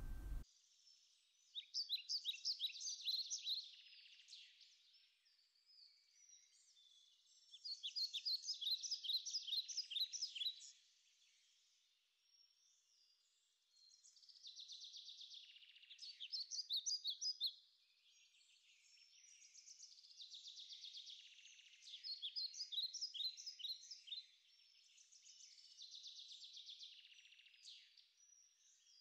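Faint birdsong: bursts of rapid, high chirping trills a few seconds long, returning every several seconds.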